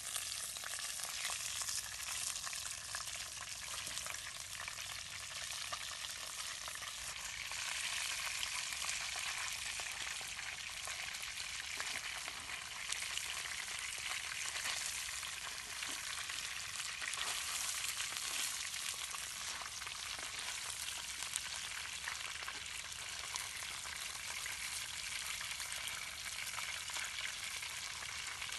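Whole fish deep-frying in a bowl of hot oil: a steady, dense sizzle with many small crackles and spits, getting a little louder about eight seconds in.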